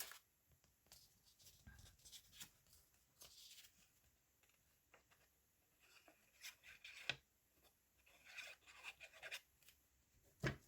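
Near silence with a few faint rustles and light taps of paper being handled and shifted on a journal page.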